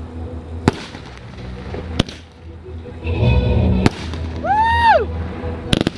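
Fireworks shells bursting with sharp bangs every second or two, a close pair near the end, over music playing in the background. A brief whistle rises and falls shortly before the last bangs.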